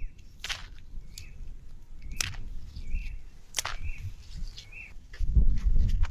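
A small bird chirping, short single calls about once a second, with a few sharp snaps or clicks between them and a burst of low rustling handling noise near the end.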